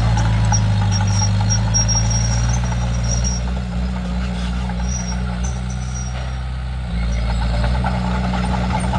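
Komatsu D31P bulldozer's diesel engine running steadily, easing off a little in the middle and picking up again about seven seconds in, with short high squeaks over the first few seconds.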